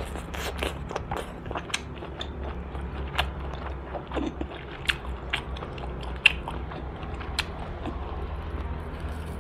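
Close-miked eating of roast duck: biting and chewing with sharp, irregular crunches and clicks, over a low steady hum.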